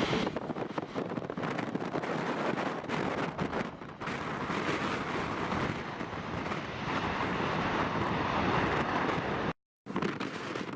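Strong gusty wind buffeting the microphone, mixed with the rumble of a jet airliner. The sound cuts out completely for a moment near the end.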